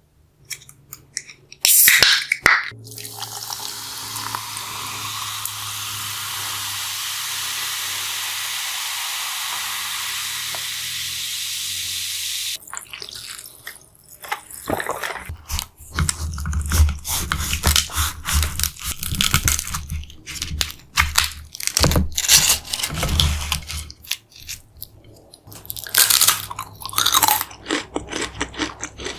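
Close-miked eating of a deep-fried chimichanga: crisp crunching bites and wet chewing, loudest in a burst of bites near the end. It is preceded by a steady hiss lasting about ten seconds.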